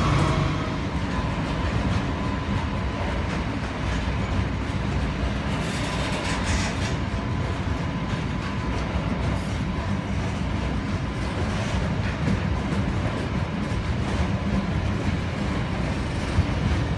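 Loaded steel-coil freight wagons rolling past on the rails: a steady rumble of wheels on track, with a faint thin steady tone over it for most of the time.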